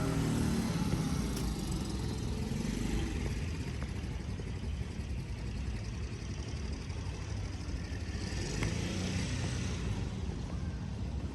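A small engine running, fading away over the first second or two, then a steady low rumble of street ambience with a brief rise in hiss near the end.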